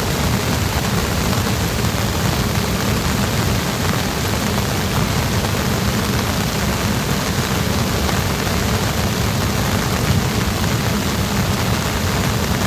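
Heavy rain pouring steadily, a dense even hiss with a strong low rushing undertone.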